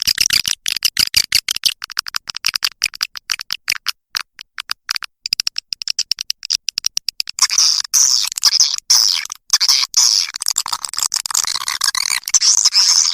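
Recorded swiftlet lure call: rapid chirping and clicking twitters of edible-nest swiftlets, a call played to draw the birds into a swiftlet house. The chirps come in quick separate strokes at first, then about seven seconds in thicken into a dense, continuous twittering.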